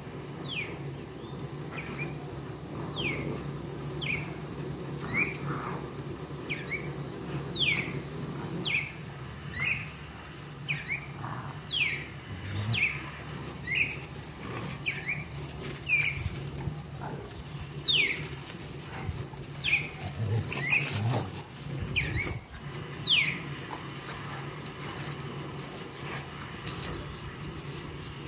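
A small bird calls again and again with short, sharp chirps that fall in pitch, about one a second, stopping a few seconds before the end. A steady low hum runs underneath.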